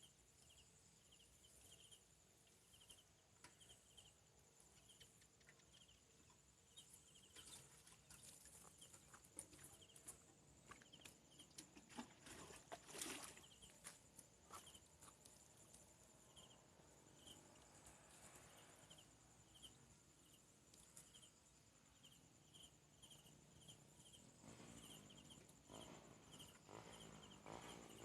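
Faint insect sounds: a steady high-pitched buzz with a short chirp repeating a little over once a second. Scattered soft clicks and rustles come and go, loudest around the middle.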